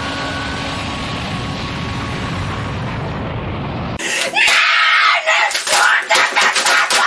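A steady noisy rumble, then about four seconds in an abrupt cut to a boy screaming loudly, broken by a rapid run of sharp hits.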